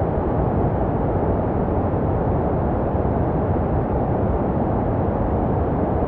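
Continuous baby sleep white noise, a steady deep rushing hiss that is strongest in the low range and fades toward the top, made to resemble the sounds a baby hears in the womb.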